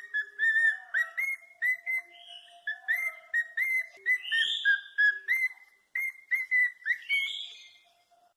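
A parrot whistling a tune: a quick run of short, clear whistled notes, about three a second, mostly on one pitch with small slides up and down, ending about seven and a half seconds in.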